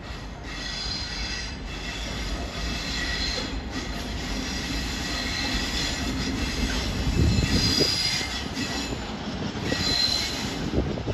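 GBRf Class 60 diesel locomotive hauling a train of open wagons past, its engine and wheels making a low rumble that swells to its loudest about seven to eight seconds in. Throughout, wheels squeal on the rails with steady high-pitched tones.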